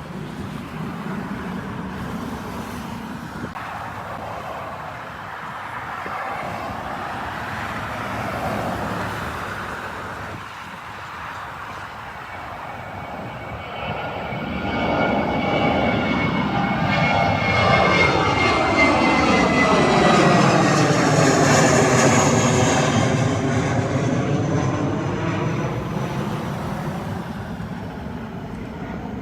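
Jet airliner passing close by. Its engine noise grows from a distant rumble about halfway through, peaks with a sweeping whistle, then fades away.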